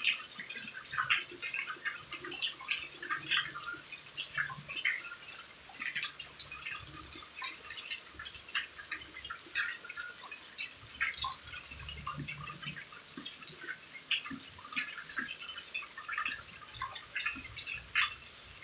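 Rain falling beside a house, heard as many separate drops and drips landing at an irregular pace over a faint steady hiss.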